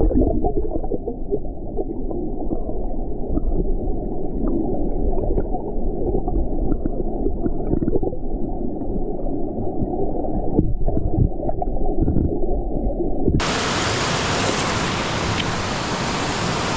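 Muffled underwater sound of a creek, with low gurgling and bubbling and the high end cut away. About 13 seconds in it suddenly opens out into the steady rush of flowing creek water heard in open air.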